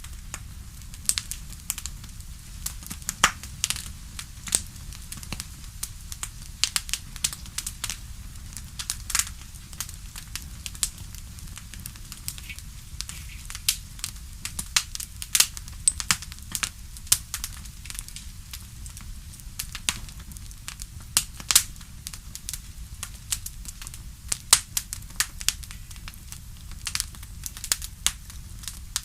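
Wood fire crackling: irregular sharp pops and snaps, clustered several a second at times, over a steady low rumble.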